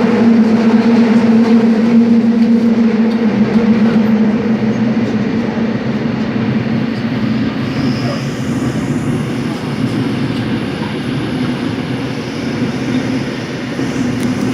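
Seoul Metro Line 7 subway train running between stations, heard from inside the car: a steady rolling rumble with a motor hum that fades after about five seconds.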